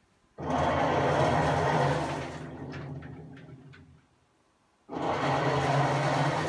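Hitachi BW-8JV washing machine running in bursts, a motor hum with rushing, churning noise: it starts abruptly, runs for about two seconds, fades to a stop, then starts again near the end. The machine is failing.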